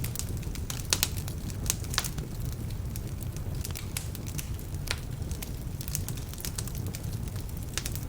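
Wood fire burning in a fireplace: a steady low rumble of flames with sharp, irregular pops and crackles from damp logs, the loudest pops about one and two seconds in.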